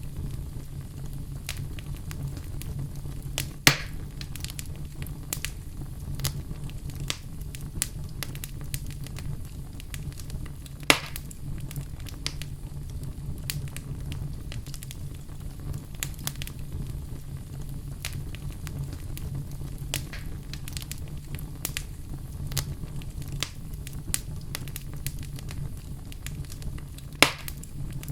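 Wood fire burning in a fireplace: a steady low rumble with constant small crackles and three sharp pops of the wood, about 4, 11 and 27 seconds in.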